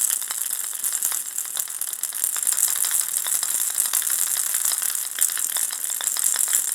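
Ball-shaped baby rattle shaken continuously, the small beads inside making a dense, steady stream of tiny clicks over a bright hiss.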